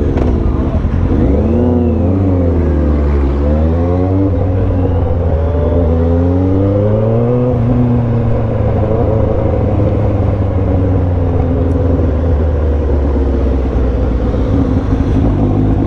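Motorcycle engine running under way, with wind noise. Its revs fall about three seconds in, climb again, then hold steady.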